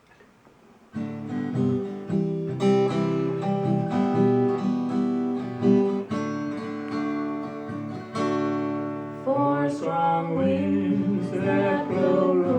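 Near silence, then an acoustic guitar starts strumming chords about a second in. A voice begins singing over it about nine seconds in.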